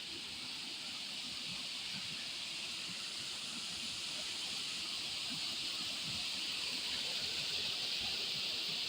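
Waterfall's rushing water heard as a steady hiss, growing slightly louder.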